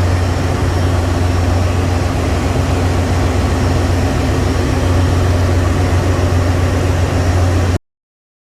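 Steady, loud machinery noise of a ship's engine room with a strong low hum, cutting off abruptly near the end.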